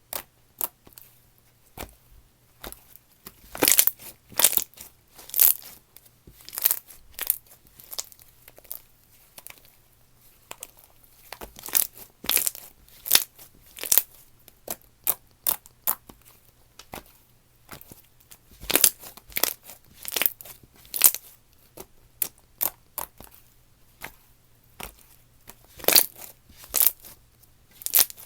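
Slime being worked by hand, pressed, poked and stretched, giving irregular sharp clicks and snaps, several a second in places.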